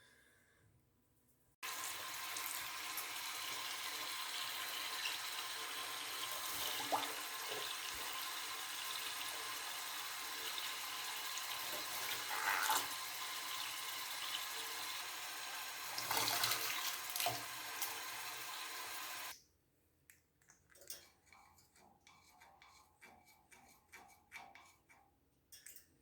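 Water running steadily, starting suddenly about two seconds in and stopping suddenly about seven seconds before the end, followed by a few faint small clicks.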